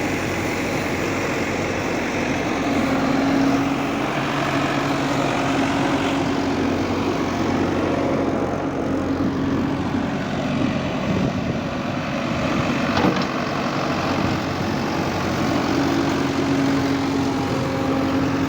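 Diesel engine of a heavy construction machine (JCB or Manitou type) running steadily. A steady whine joins it twice, around three seconds in and again near the end, and there is one sharp click about thirteen seconds in.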